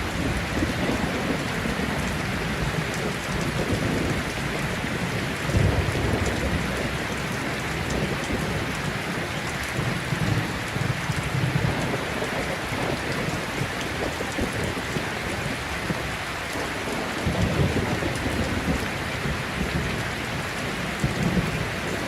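Heavy rain falling steadily, with rolls of thunder rumbling low underneath: a thunderstorm. The thunder swells several times, about five seconds in, around ten to twelve seconds in, and again near seventeen seconds.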